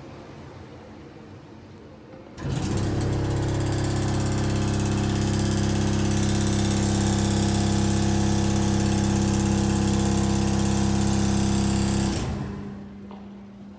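iVision IV5 industrial vacuum switched on about two seconds in, running steadily with a motor hum and airflow hiss, then switched off near the end and winding down.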